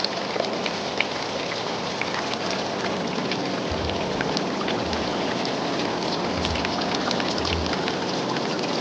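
Rain falling: a steady hiss with many small, sharp drop ticks, and low wind thumps on the microphone a few times in the second half.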